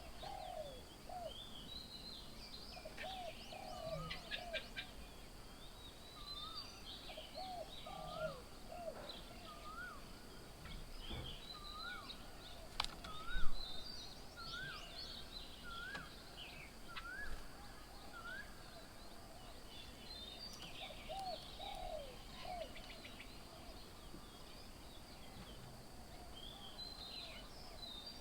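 Several birds calling: a repeated rising note about once a second through the middle, short groups of lower rising-and-falling calls, and high chirping throughout. One sharp knock about halfway through is the loudest sound.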